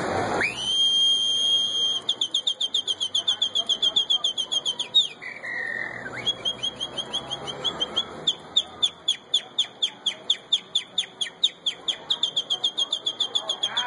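A man whistling an imitation of a canary's song. It opens with a rising whistle held steady, then runs into long, rapid high trills of about seven notes a second, broken about five seconds in by a short, lower warble.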